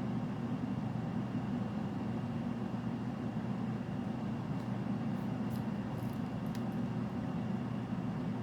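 Steady low background rumble with no change in level, with a few faint, brief ticks a little past the middle.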